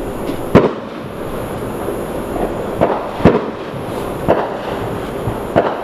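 Firecrackers going off: about five sharp bangs at irregular intervals over a steady background hiss.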